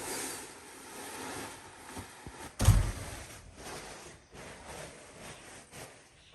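Rustling and scraping handling noises with one heavy thump about two and a half seconds in, followed by a few lighter knocks.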